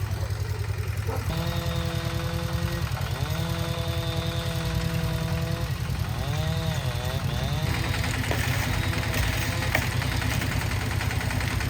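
Small engine of a concrete mixer running steadily with a fast low chugging. A pitched tone rides over it for several seconds, holding level and then wavering up and down before dropping away.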